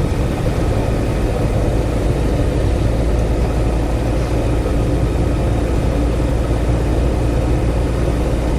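Steady engine hum with wind and road noise, heard on board a moving vehicle.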